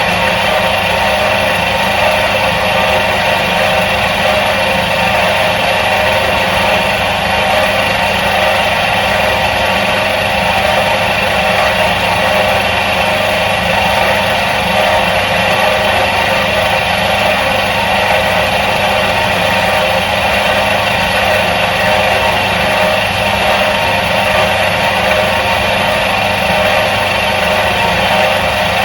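The electric motor of a 1977 Soviet washing machine running steadily: a constant hum that does not change in speed or level.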